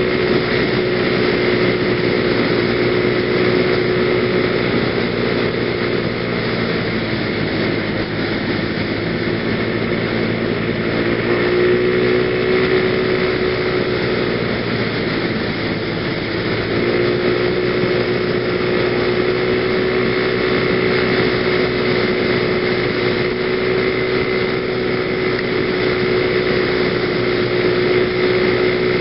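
PGO BuBu 125cc scooter engine running at riding speed, with wind rushing over a helmet-mounted microphone. The engine note eases off about six seconds in and again around fifteen seconds, then picks back up and holds steady.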